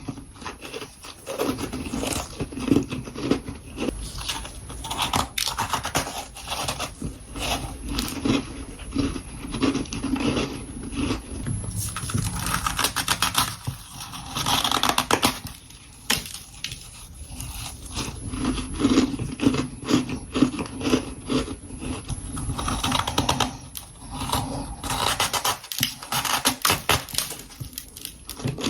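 Powdery freezer frost being bitten and chewed, a long run of crisp, crackling crunches that swell and fade from one mouthful to the next.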